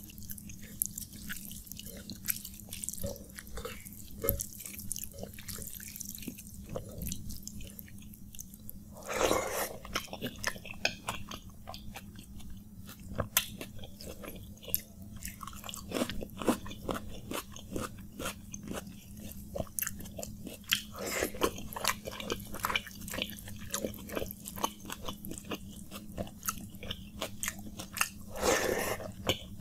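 Close-miked eating of water-soaked rice by hand: wet chewing and mouth smacks mixed with the squish of fingers mashing rice and mashed potato in the bowl, in many small clicks with a few louder wet bursts. A faint steady hum sits underneath.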